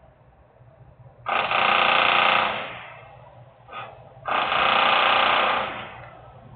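Two loud bursts of a rapid buzzing rattle from a power tool, each lasting just over a second, with a brief blip between them, over a low steady hum.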